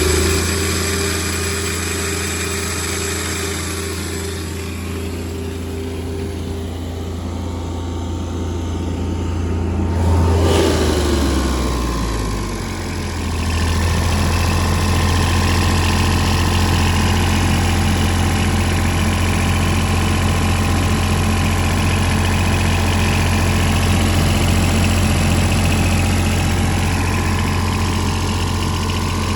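Denyo BLW-280SSW II diesel engine welder-generator running steadily. About ten seconds in its engine note dips and shifts, then it settles into an even run.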